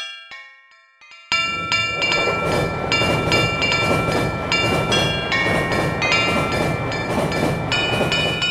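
A level-crossing warning bell's chime dies away, then about a second in a train starts rumbling past the crossing. Repeated bell strikes keep ringing over the rumble.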